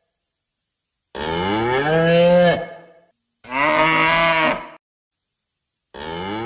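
Cattle mooing in three separate calls with dead silence between them. A long moo about a second in tails off, a shorter, brighter call follows, and another moo begins near the end.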